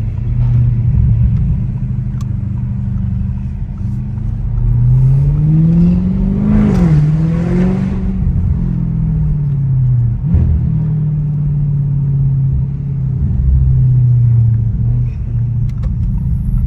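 Straight-piped Audi S7 exhaust under way. It pulls up in pitch between about four and eight seconds in, with a brief dip around seven seconds, then eases off and settles back to a steady low drone.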